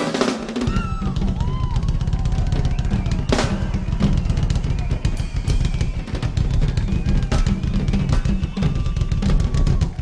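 Live funk band music carried by a busy drum kit, with rapid bass-drum and snare strokes rolling on, and a few sliding higher notes above.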